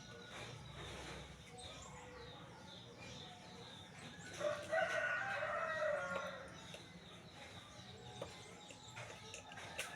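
A rooster crowing once, a single call of about two seconds near the middle.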